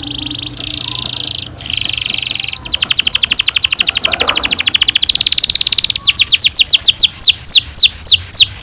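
Domestic canary singing a long rolling song. It starts with buzzy trills, runs into a very fast roll of rapid repeated notes, then from about six seconds in goes to a train of quick down-sweeping notes.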